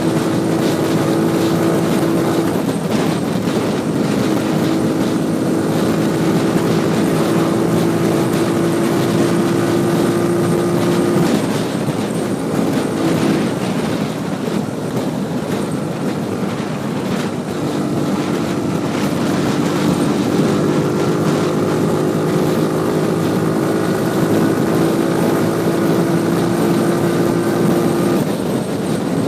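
Motorcycle engine running under way, with wind and road noise over the microphone. The engine note holds steady, then eases off about a third of the way in, leaving mostly wind noise for a few seconds, comes back and eases off again near the end.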